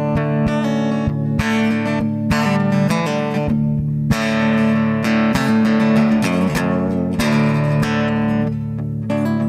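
Gibson ES-355 electric guitar played through its LR Baggs T-Bridge piezo pickup and a Kemper Profiler studio-preamp profile, giving an acoustic-guitar-like tone: chords strummed and picked in a steady rhythm.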